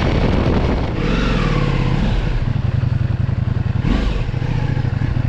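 Ducati Multistrada V4S motorcycle's V4 engine dropping in revs as the bike slows, then running steadily at low revs with a rhythmic low pulse.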